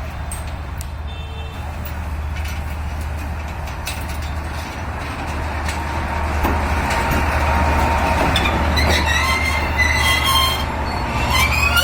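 D19E diesel-electric locomotive moving slowly, its diesel engine humming steadily and growing louder as it comes closer. About eight seconds in, the wheels start squealing against the rails in thin, high, wavering tones.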